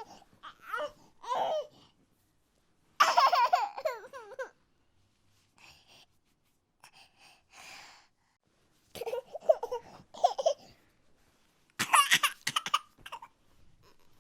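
A baby laughing and babbling in several short bursts, with quiet gaps between them.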